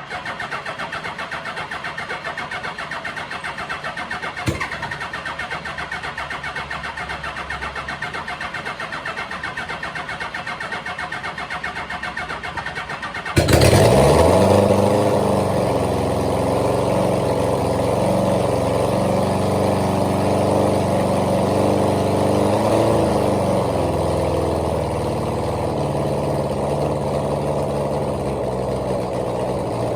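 Suzuki GS1000G's air-cooled inline-four cranking on the electric starter with a fast, even churn for about thirteen seconds. It then fires and catches, jumping to a loud open-header run with no exhaust fitted, revving up and then holding a high idle. The revs sit high because the idle screw is still turned in from the carburettor synchronisation.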